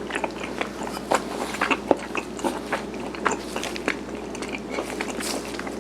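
Close-up chewing and biting of garaetteok, the soft, chewy Korean rice cake, heard as many small irregular mouth clicks and smacks. A steady low hum runs underneath.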